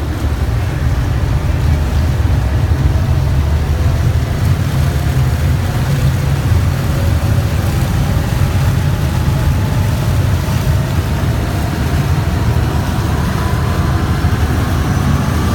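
River boat's engine running with a steady low rumble, with a faint rising whine joining over the last few seconds.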